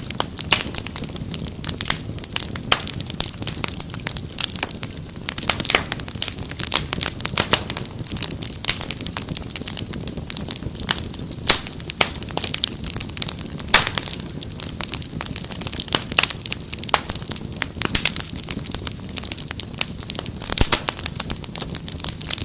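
Wood fire crackling steadily: frequent sharp snaps and pops over a low, steady rumble of burning.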